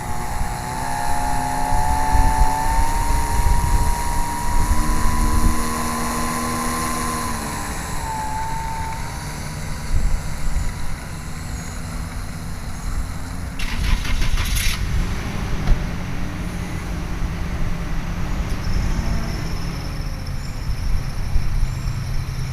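1400 mm Cessna 182 RC model airplane's motor and propeller whining, the pitch rising over the first several seconds as it takes off, then fading out as the plane flies away.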